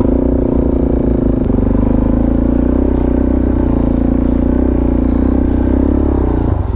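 Motorcycle engine running steadily, its note shifting about a second and a half in.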